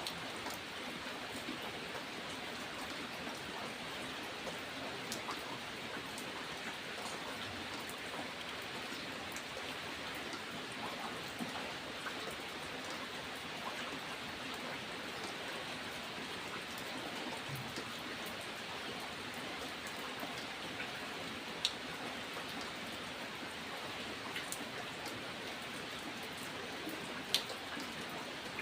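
Steady rain with close, distinct drops ticking on a surface. A couple of louder single drips stand out about two-thirds of the way through and near the end.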